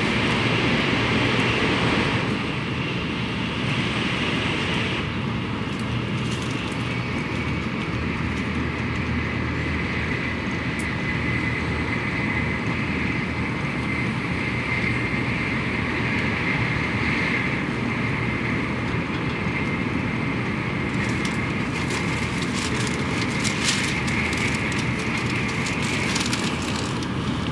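Cabin noise inside a Tokaido Shinkansen passenger car running along the line: a steady rumble with a faint high whine through the middle and a few faint clicks near the end.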